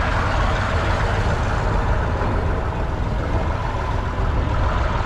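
Fendt 728 Vario tractor's 7.5-litre six-cylinder diesel engine running steadily.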